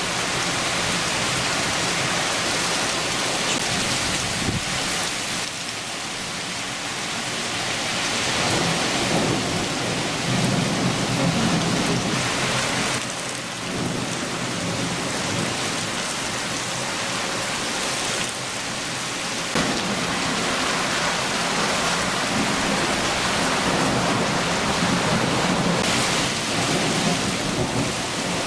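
Rain shower falling steadily, with low thunder rumbling underneath that swells about eight seconds in and again about twenty seconds in.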